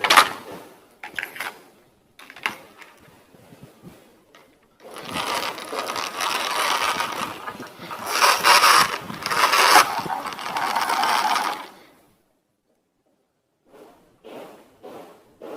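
Plastic toy vehicle's gears whirring, a loud continuous rattling run of several seconds that cuts off abruptly about twelve seconds in, preceded by scattered clicks and knocks of the toy being handled.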